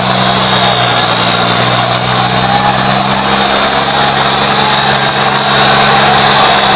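Diesel tractor engines running loud and steady, pulling against each other in a tractor tug-of-war.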